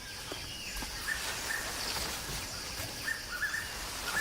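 Tropical forest ambience: a bird gives short calls over and over, a couple a second, over a steady high hiss of insects.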